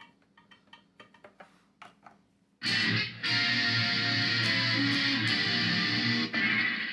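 A run of light clicks, then an electric guitar played through a Korg A5 multi-effects processor comes in loudly about two and a half seconds in, with sustained chords and notes.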